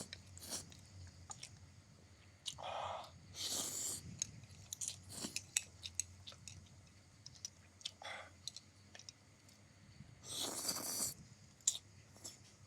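Close-miked eating of egg noodles: wet chewing and many small lip-smacking clicks, broken by a few short slurps, the longest about ten seconds in.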